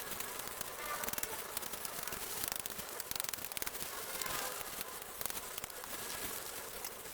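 Dense, continuous crackling and rustling made of many small clicks, like dry leaves and vines being pulled and handled.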